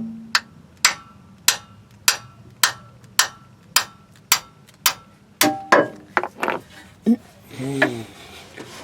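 Hammer tapping steadily at the tight filler plug of a Sprinter van's manual gearbox to free it, about two sharp ringing taps a second, followed by a few irregular knocks.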